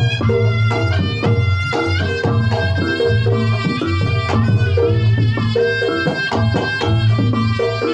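Reog Ponorogo ensemble music: a reedy slompret shawm plays a sustained, wavering melody over kendang drums and struck gong-chime percussion with a heavy steady bass.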